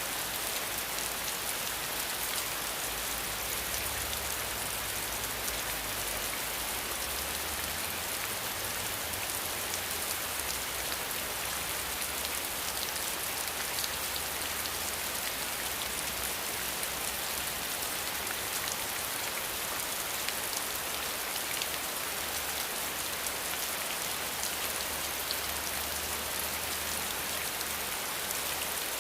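Steady rain falling: a dense, even hiss with fine ticks of individual drops. A low rumble sits underneath for most of it.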